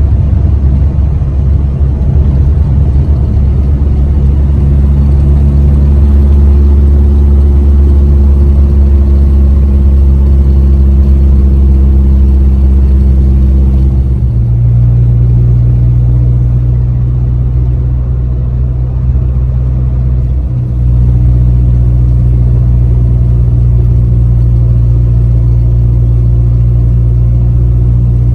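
Ford Ranger pickup's engine and road noise while driving, a steady low drone; the engine note shifts about halfway through, as with a gear change or a change of speed.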